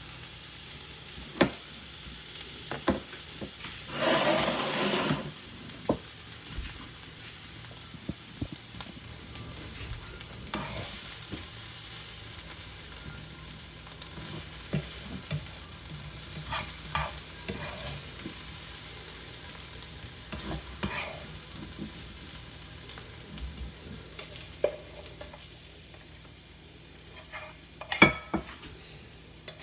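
Cauliflower fried rice sizzling in a pan as it is stirred, with a spatula knocking and scraping against the pan at irregular intervals. About four seconds in there is a louder burst of sizzling and scraping lasting about a second.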